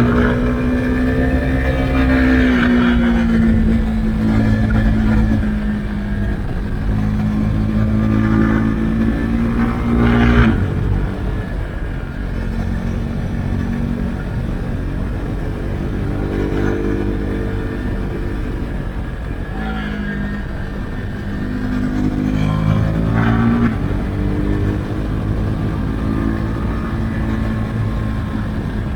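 Husqvarna Svartpilen 401's single-cylinder engine through an Akrapovic exhaust with the dB-killer removed, heard from the rider's seat while riding, revving up and down through the gears. The engine note drops sharply about ten seconds in and again near the last quarter, as the throttle is closed or a gear is changed.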